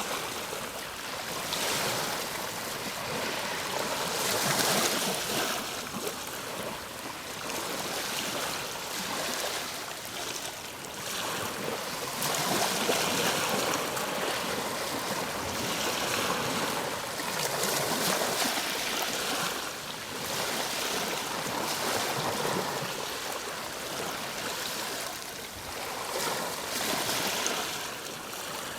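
Ocean waves breaking and washing on a shore, a steady rush of surf that swells and fades every few seconds.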